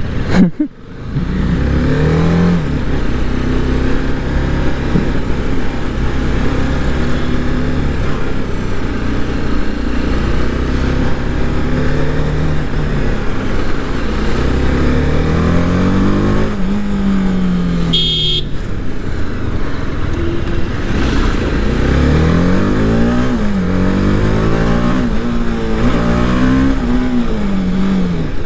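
Motorcycle engine under way, its pitch climbing and dropping again and again as the rider accelerates and shifts gears, over a steady rush of wind noise. A short high beep sounds about two-thirds of the way through.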